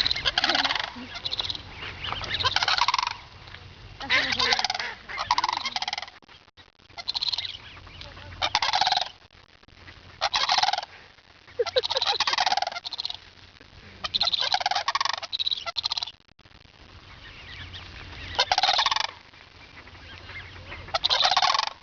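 A group of large birds calling loudly in repeated bursts, each half a second to a second long, one after another every second or two.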